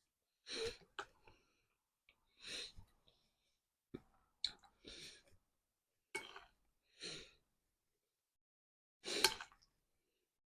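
Eating and mouth sounds close to the microphone: about nine short, faint noises of chewing and breathing, spaced a second or so apart.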